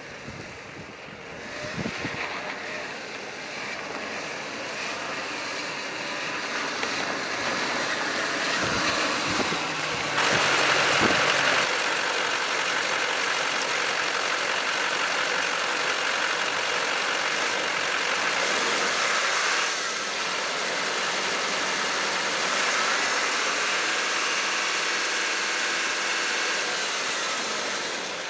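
A 6.6-litre Duramax V8 turbo diesel in a 2005 Chevy Silverado 3500 idling steadily. It grows louder over the first ten seconds or so, then holds level.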